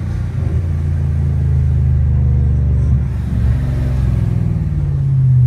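Tuned BMW sedan's engine running at low speed in traffic, heard from inside the cabin: a steady low drone whose pitch shifts slightly up and down.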